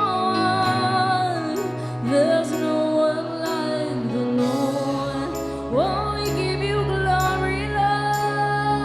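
Worship music: a woman singing long held notes that glide between pitches, over a sustained low bass and a steady beat.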